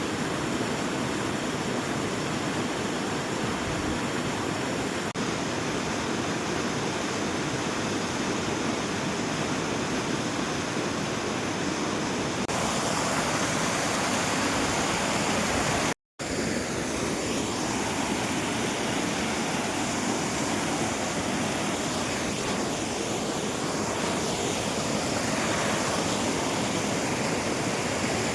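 Steady rush of falling water from a rocky waterfall, cutting out for a moment about halfway through.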